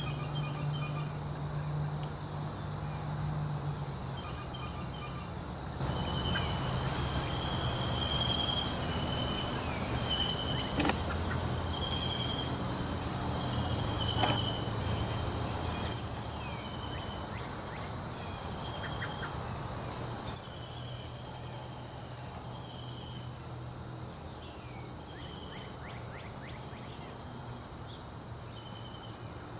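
Insects, crickets or similar, trilling steadily and high-pitched in a fast pulse, with repeated short chirping calls over it. The chorus gets louder about six seconds in and eases off after about sixteen seconds.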